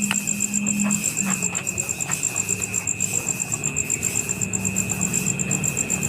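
Insects chirping steadily: a fast, even, high-pitched pulsing over a steady lower whine.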